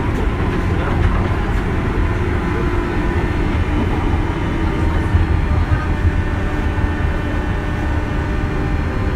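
Interior running sound of a JR West 201 series chopper-controlled electric train: a steady rumble of wheels on track with a faint steady motor hum above it.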